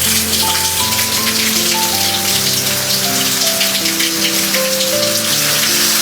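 Steady rain falling, a dense patter of drops, with soft background music of held notes underneath.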